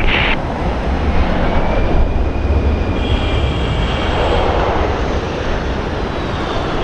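Four turbofan engines of a Boeing C-17A Globemaster III on final approach, running as a steady low rumble with a faint high whine that falls slowly in pitch near the end.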